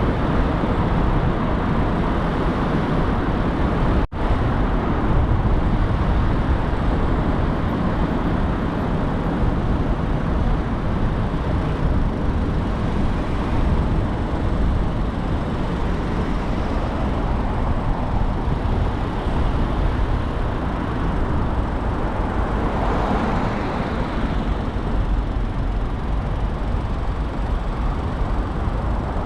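Steady road and engine noise of a car driving through city traffic, with a very brief dropout about four seconds in.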